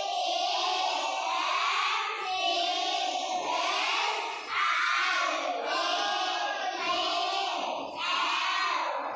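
A class of young children singing together in unison, their voices carrying on with only brief breaks between phrases.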